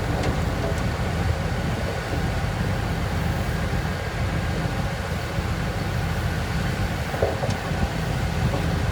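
Heavy earthmoving machinery running, a steady low diesel rumble, with a few short knocks near the start and again near the end.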